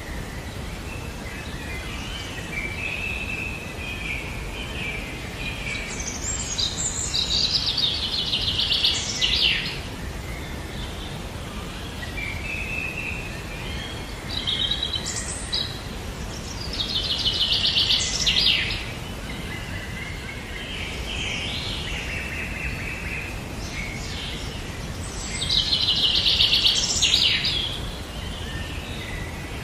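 A songbird singing the same song three times, about nine seconds apart, each phrase ending in a rapid trill, with softer calls between, over a steady background hiss.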